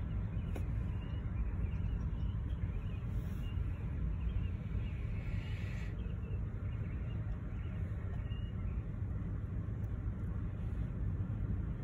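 Steady low rumble of a freight train of hoppers, boxcars and tank cars rolling slowly over a grade crossing, heard from inside a car.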